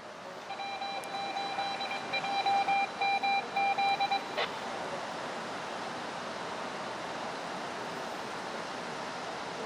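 Heavy rain falling steadily, with a run of electronic beeps, a pulsed tone repeating for about four seconds in the first half and stopping with a click.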